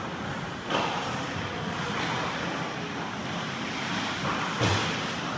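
Ice hockey play in a rink: a steady noisy rumble of skates and rink hum, with two sharp knocks, about a second in and a louder one near the end, from sticks, puck or boards.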